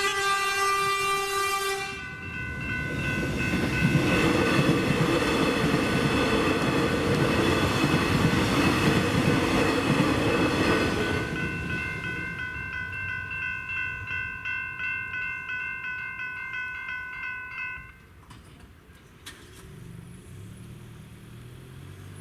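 Level crossing electronic bells (General Signals E-bells) ringing rapidly while a train sounds its horn for about two seconds, then passes over the crossing with a loud rush and rattle of wheels for about nine seconds. The bells keep ringing after the train has gone and stop suddenly about 18 seconds in as the crossing deactivates.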